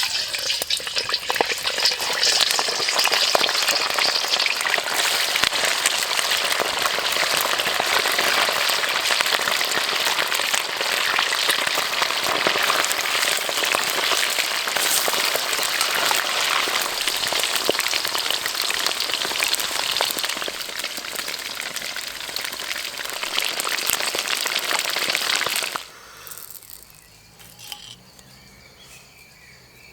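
Food deep-frying in hot oil: a dense, steady sizzle full of crackles, which cuts off suddenly about 26 seconds in.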